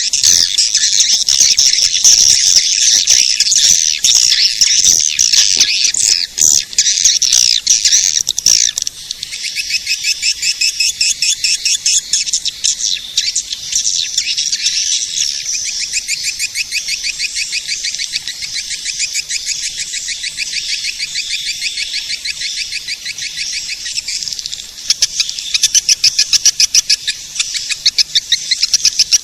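Swiftlet lure-call recording: high-pitched swiftlet twittering, dense and overlapping at first, then settling about a third of the way in into rapid, evenly repeated trilled chirps.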